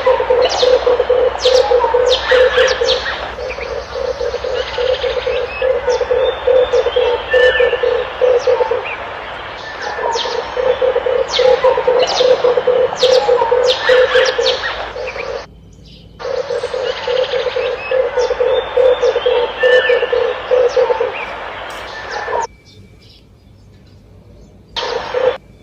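Red turtle dove cooing in long runs of low, rapidly pulsing coos, over sharp chirps from other small birds. The recording cuts out suddenly twice, about fifteen seconds in and again near the end, before the cooing resumes.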